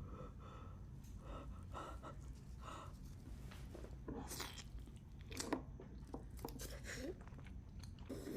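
Wet chewing, biting and crunching of someone eating lobster, in short irregular bouts, from a mukbang video.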